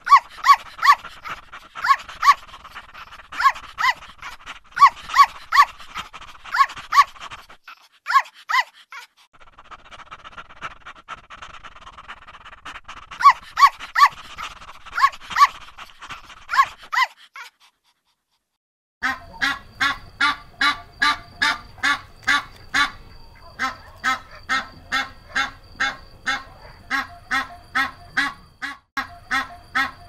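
A small dog barking sharply and repeatedly, about two barks a second, in two bouts with a short break between them. After a brief silence, a steady series of duck quacks at about two a second.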